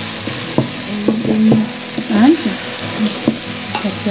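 Chicken pieces sizzling and frying in a large aluminium saucepan while a long wooden spoon stirs them, knocking and scraping against the pot now and then.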